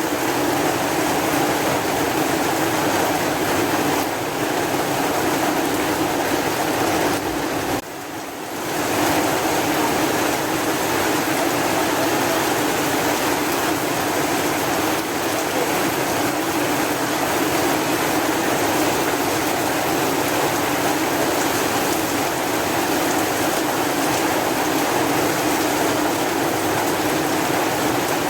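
Steady heavy rain, a continuous even rushing hiss, with a brief dip in loudness about eight seconds in.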